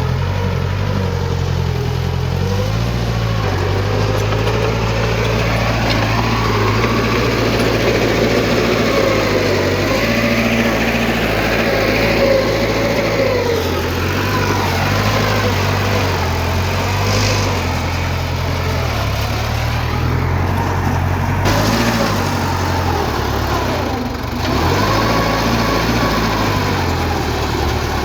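Diesel engine of heavy earthmoving machinery running continuously, its pitch rising and falling as the revs change. The level drops briefly near the end.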